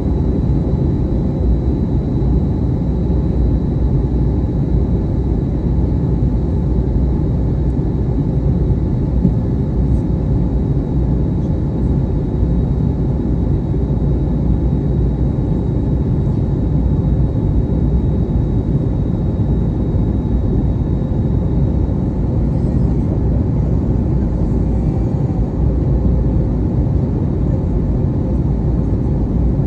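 Steady, even cabin noise inside an airliner in flight: a deep, unbroken drone of engines and airflow, with a faint high whine that fades out about three-quarters of the way through.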